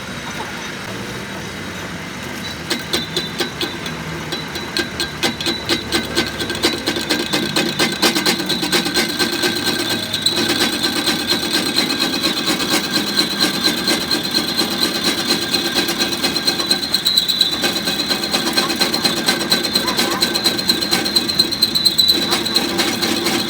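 Rapid, repeated hammer blows on metal, two or three a second, getting closer together partway through, with a steady metallic ring between the strikes.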